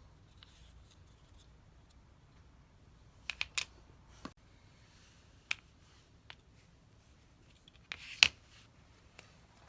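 Scattered small clicks and taps of hand tools and small parts being handled while a Shimano Di2 STI lever is worked on: a quick cluster about three seconds in and a sharper pair near eight seconds.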